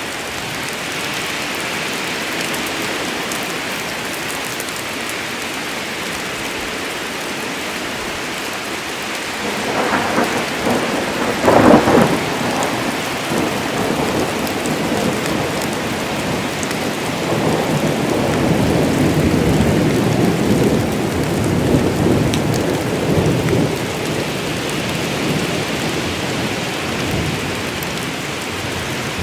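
Steady heavy rain falling in a forest, with a sharp crack of thunder about a third of the way in, followed by long low rolling thunder.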